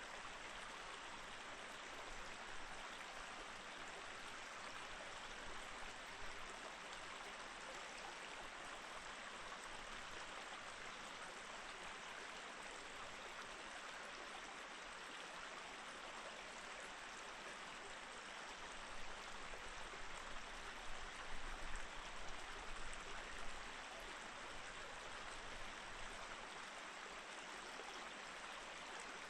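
Mountain stream flowing over rocks: a steady rushing and babbling of water, growing briefly louder and more uneven about two-thirds of the way in.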